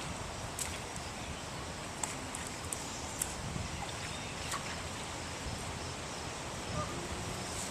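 Steady outdoor background noise with a low rumble, broken by several light clicks or taps in the first few seconds.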